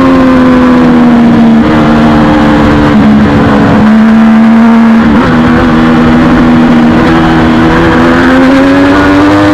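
A race motorcycle engine running hard at high revs. Its pitch holds high, dips briefly a few times in the first half, and climbs near the end.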